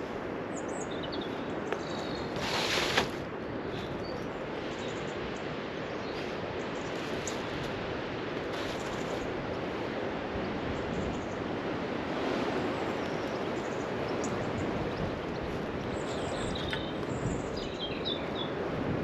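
Outdoor garden ambience: small birds chirping a few times, mostly in the first seconds and again near the end, over a steady rushing background. A short loud hiss comes about three seconds in.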